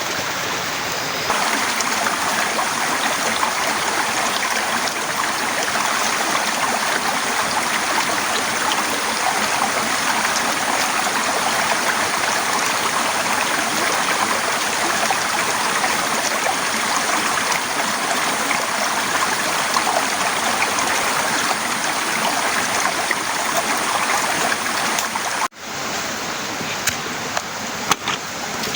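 Heavy rain pouring down in a dense, steady hiss. The hiss grows a little louder about a second in, cuts out for an instant near the end, and a few sharp taps follow.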